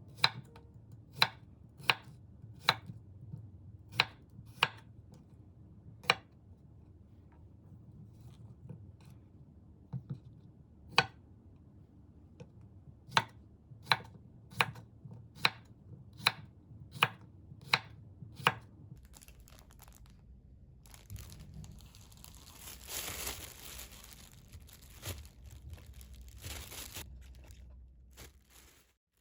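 Knife cutting cucumbers on a cutting board: about sixteen sharp single chops at irregular spacing. Then a plastic bag rustles and crinkles for several seconds.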